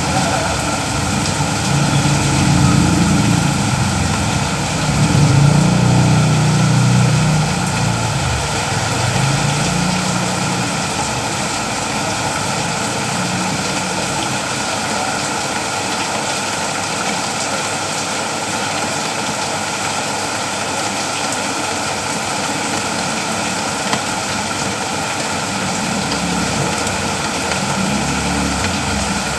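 Steady rain falling, an even hiss. A low rumble swells under it for the first ten seconds or so and comes back near the end.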